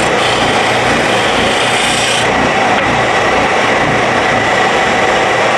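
Power sander running steadily while a wooden piece is pressed against it and shaped, a continuous rasping of abrasive on wood with a faint steady whine.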